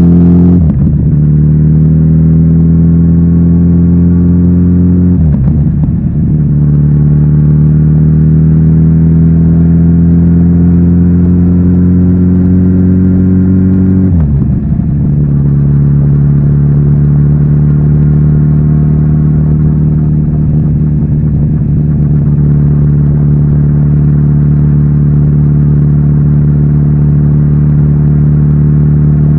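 Kawasaki Z900RS inline-four engine through its stock exhaust, pulling up through the gears. The pitch climbs and drops sharply with an upshift three times, just after the start, at about 5 seconds and at about 14 seconds, then holds steady at a constant cruising speed.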